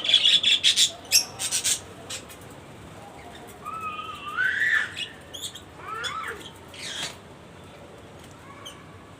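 Pet parrot calling: a quick run of sharp squawks and clicks in the first two seconds, then wavering, gliding whistles and a few short chirps, dying away about two seconds before the end.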